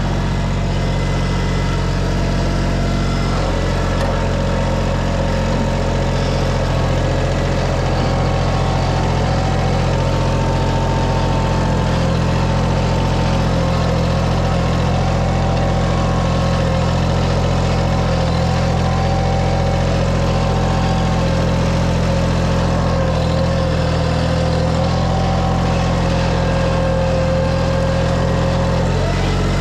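An engine running steadily at a constant speed, with a fainter whine above it that wavers slightly in pitch.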